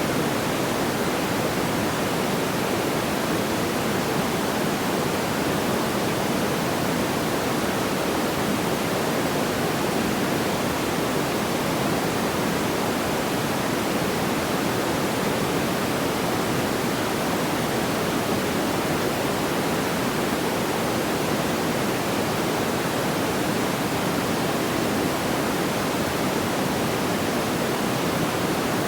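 Steady, even rushing noise like pink noise, fullest in the lower-middle range, with no crackles or pops.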